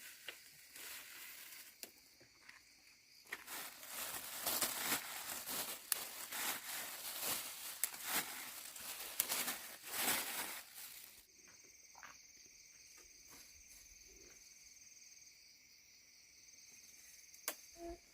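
Crinkling, rustling handling noise with many small clicks, loudest for several seconds in the middle, then dropping off about eleven seconds in. After it, steady high insect chirring continues.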